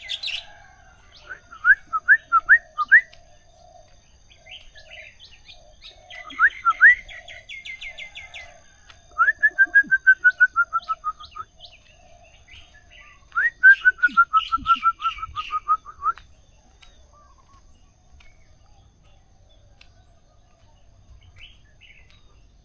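Several songbirds singing. One sings bouts of fast, upswept whistled notes that step down in pitch, four bouts in all, against a higher rapid trill and a lower repeated note. After about sixteen seconds the singing mostly stops.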